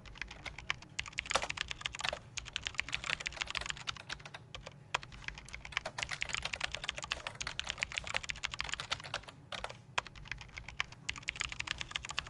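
Computer keyboard typing, rapid and continuous key clicks with short pauses, over a low steady room hum.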